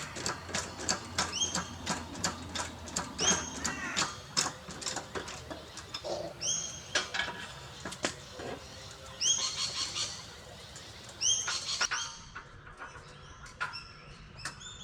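Engine hoist and its chain being worked: irregular rapid metallic clicking with short high squeaks every couple of seconds, the clicking thinning out near the end.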